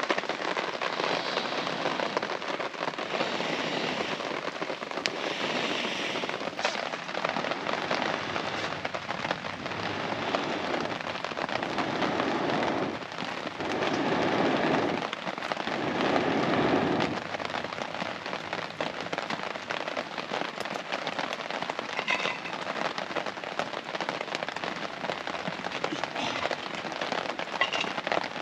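Steady rain pattering on a tarp overhead, a dense hiss of fine drop ticks that swells louder twice around the middle.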